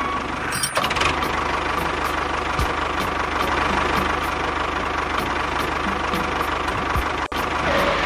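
Miniature model tractor running: a steady mechanical engine-like drone with a constant high whine.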